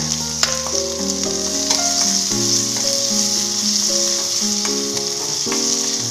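Chopped onion, garlic and ginger sizzling in hot oil in a wok, stirred with a metal spoon that clicks against the pan now and then. Background music with held notes plays throughout.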